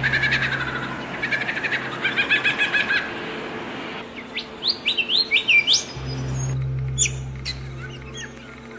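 Songbirds chirping and trilling, with a run of quick rising whistled notes about four seconds in. A steady low hum sits underneath at the start and returns about six seconds in.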